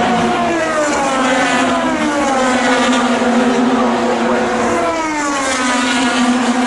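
IndyCar racing engines, 2.2-litre twin-turbo V6s, running at high revs. Their pitch falls in two long downward sweeps, one near the start and one about two-thirds of the way through, with a steady drone underneath.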